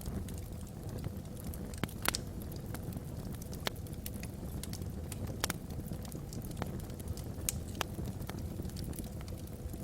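Wood fire of logs burning in a fireplace, crackling with irregular sharp pops over a steady low rumble of the flames.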